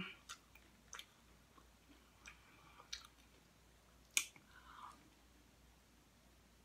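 Faint chewing of Doritos tortilla chips, with a few short, sharp crunches, the loudest about four seconds in.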